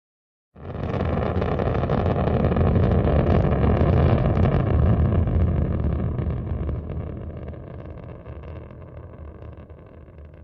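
Rocket engine roar, starting abruptly about half a second in, building to a loud, deep rumble and then slowly fading away as the vehicle climbs off.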